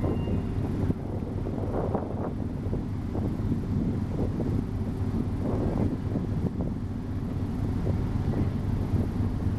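Steady low rumble of a large ferry's engines, with wind buffeting the microphone.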